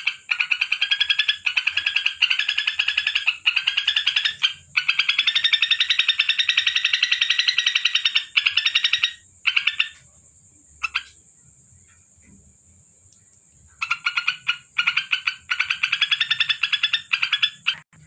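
Yellow-vented bulbul (trucuk) singing in long, fast rattling chatters, breaking off for about four seconds past the middle before starting up again.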